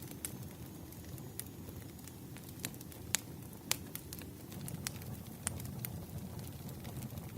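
Wood fire burning: a low steady rumble of flames with irregular sharp crackles and pops of burning firewood, a couple of louder pops near the middle.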